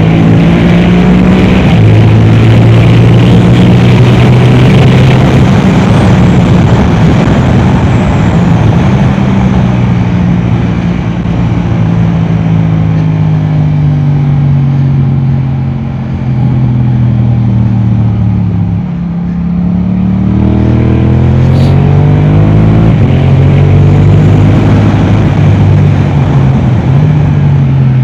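Yamaha R7's parallel-twin engine through an Akrapovic exhaust, running hard under load. The pitch holds high, drops as the bike slows about halfway through, then climbs again as it accelerates.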